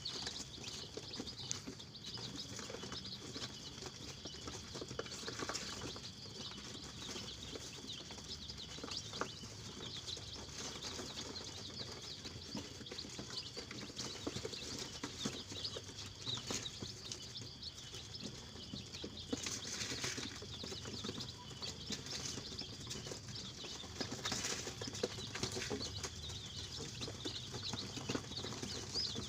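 Flock of KUB village chickens chirping and peeping continuously, with scattered rustles and small clicks, busier a little before two-thirds of the way through.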